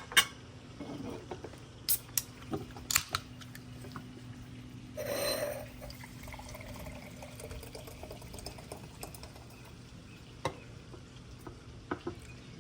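Cutlery clicking against a plate during a meal: a few sharp clinks, with a brief rush of noise about five seconds in, over a low steady hum.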